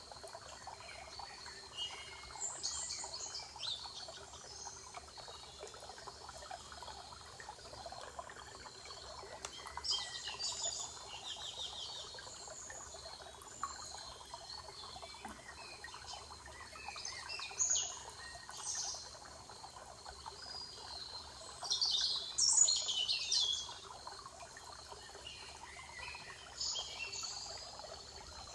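Wild songbirds singing in a spring forest: short bursts of high, chirping song every few seconds, the loudest about two-thirds of the way through, over a faint steady background rush.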